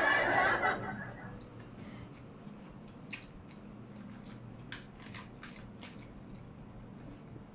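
A man's laughter trailing off in the first second, then faint, scattered wet clicks of close-miked chewing as he eats kimbap.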